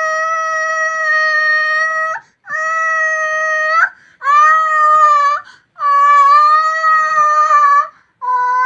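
A baby wailing: a string of long, loud, steady-pitched cries, each held for one to two seconds and bending up in pitch at its end, with short breaths between.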